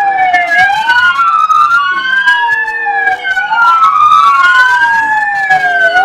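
Police siren wailing, with two tones sliding up and down in opposite directions and crossing, each sweep lasting about two and a half seconds.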